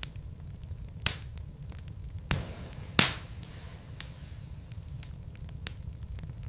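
Wood logs burning in a fireplace: a low steady rumble of the fire with scattered sharp crackles and pops, the loudest pop about three seconds in.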